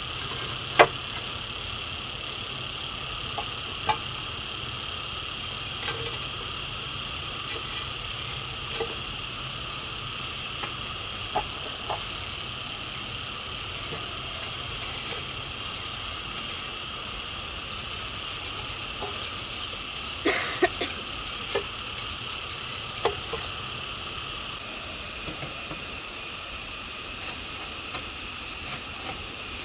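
A steady high hiss in several fixed pitches, with a dozen or so sharp clicks and knocks scattered through it and a short cluster of them about two thirds of the way through.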